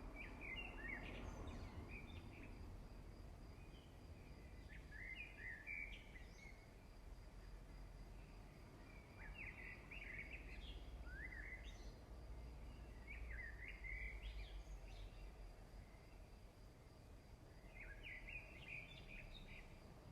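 Faint bird song: a short phrase of quick chirps, repeated five times about every four seconds, over a low background rumble.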